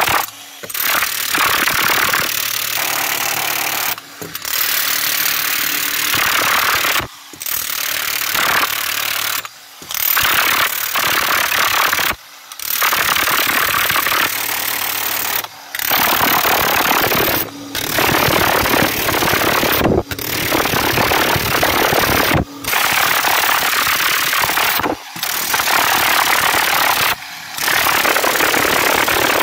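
Powered rammer compacting earth for a rammed earth wall, running in stretches of two to three seconds broken by short gaps, with a steady engine hum under it at times.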